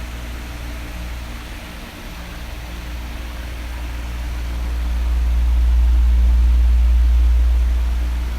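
Electric fan running steadily: an even rushing hiss over a low hum. The hum swells louder midway and eases off near the end.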